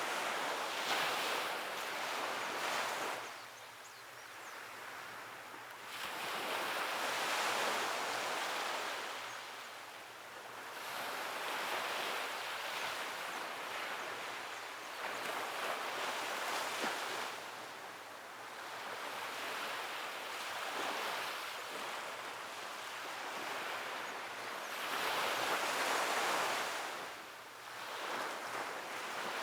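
Sea waves breaking and washing onto the shore, the surf hiss swelling and ebbing every few seconds.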